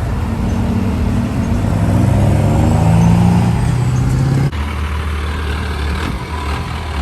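Truck engine accelerating, its pitch rising steadily for about four seconds, then a sudden cut to a steadier, lower engine sound.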